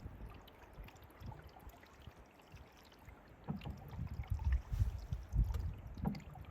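Canoe being paddled: water sloshing and gurgling against the paddle and hull, with irregular low knocks, quiet at first and busier from about halfway.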